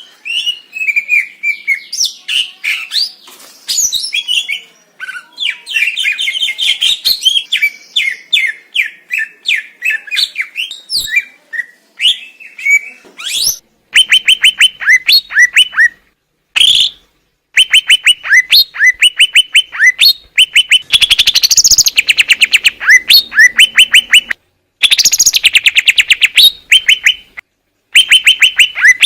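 Green leafbird (cucak ijo) song: loud, varied chattering phrases at first, then from about halfway fast runs of sharp repeated notes, several a second. The runs cut off abruptly a few times, like splices between recordings.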